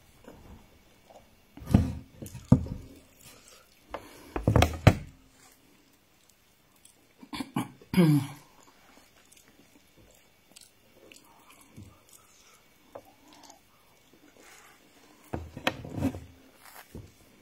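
A person eating rice and stew by hand: wet chewing and lip-smacking in a few short loud clusters with quiet stretches between.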